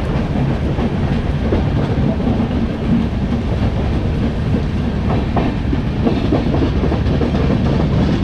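Moving express train heard from aboard its coach: a steady running rumble, with a few faint clicks of the wheels over the rails.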